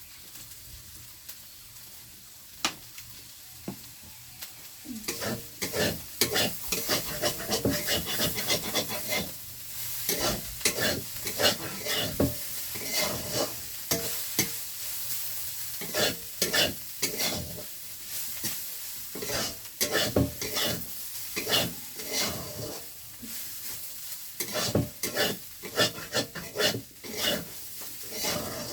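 Food sizzling as it fries in a pan, stirred with a utensil that scrapes and knocks against the pan in many quick, irregular strokes, busier from about five seconds in.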